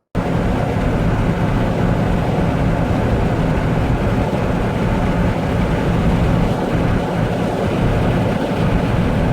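Steady vehicle driving noise, road and engine running at an even speed, with a low hum under it.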